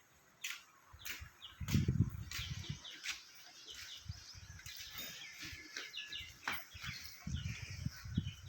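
Birds chirping in short, rapid calls, with gusts of wind rumbling on the microphone about two seconds in and again near the end.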